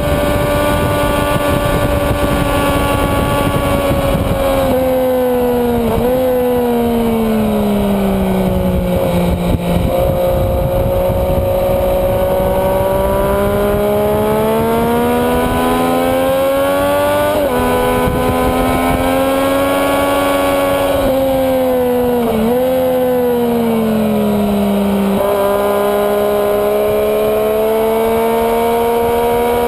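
Sport motorcycle engine heard onboard at track speed: the revs fall twice while it slows for corners and climb again under acceleration, with brief jumps in pitch at gear changes, over a steady rush of wind.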